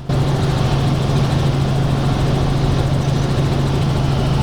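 Helicopter in flight heard from inside the cabin: a loud, steady drone of engine and rotor with a constant low hum under a broad rushing noise, cutting in abruptly at the start.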